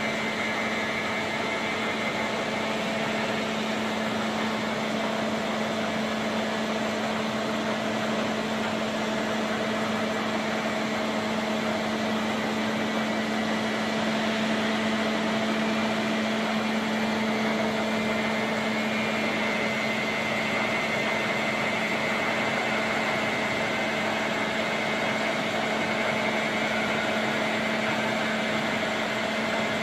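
Caser gantry milling machine running with a steady hum and a constant drone.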